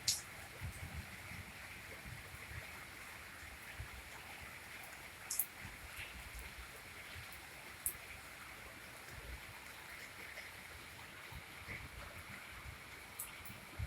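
Steady rain falling, an even hiss with irregular low rumbles and four short, sharp high-pitched ticks spread through it.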